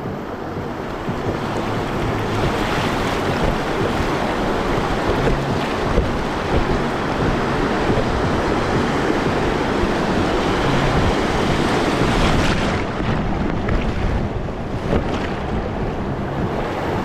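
Whitewater of river rapids rushing steadily around a raft, with wind buffeting the action-camera microphone.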